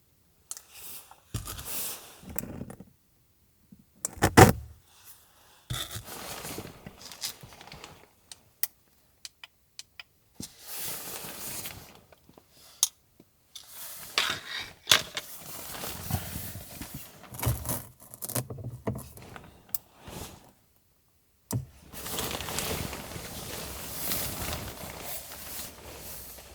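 Things being handled and moved about: rustling and scraping in irregular bursts with scattered clicks, and one sharp knock about four seconds in.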